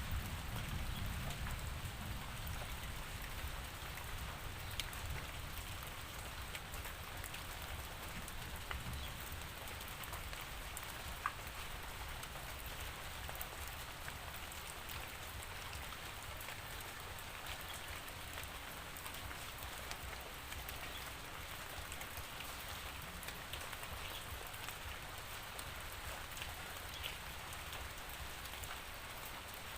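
Steady rainfall: an even hiss of rain on surfaces with scattered individual drops ticking, and a low rumble that is stronger in the first few seconds.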